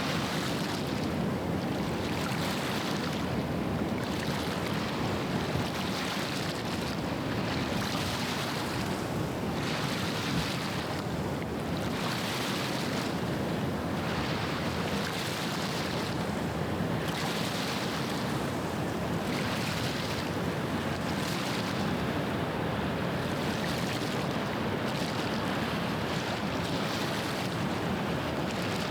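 Small waves washing onto the estuary shore, one wash every second or two, over a steady low rumble.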